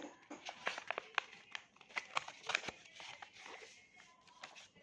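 A sheet of paper being folded and creased by hand, crinkling with irregular sharp crackles that thin out near the end.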